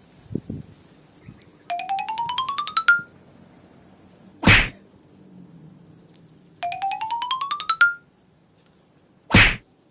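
Edited-in sound effects: a quick rising run of about a dozen chime-like notes, then a short loud rush of noise; the pair plays twice. A few faint low thuds come just before the first run.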